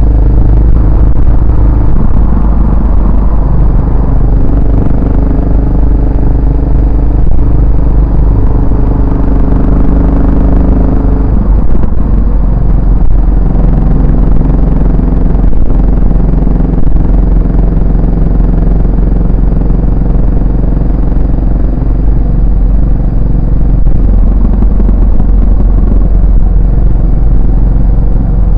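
Yamaha SR400's single-cylinder engine and exhaust running while riding, a deep steady thump. The engine note drops about a third of the way through and shifts again later as the revs change.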